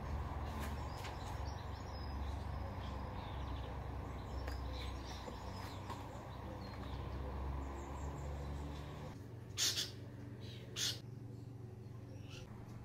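Faint birdsong over a steady low rumble, which cuts off about nine seconds in; then two short sharp noises about a second apart.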